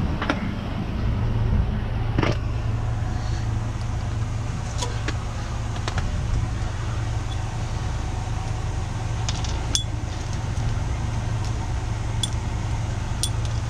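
A diesel truck engine idling steadily, with a few sharp metallic clicks and clinks now and then.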